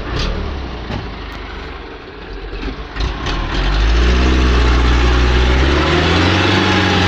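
A loaded truck's engine, stuck on a broken road. It runs at lower revs with a few knocks in the first three seconds, then revs up sharply and holds high under strain, its pitch wavering, as it tries to pull free.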